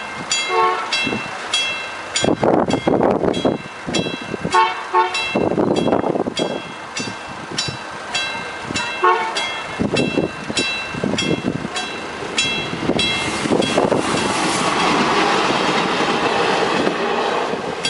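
A train passes through the station, its noise building in the second half. It sounds three short horn toots about four seconds apart. A warning bell rings steadily about twice a second throughout.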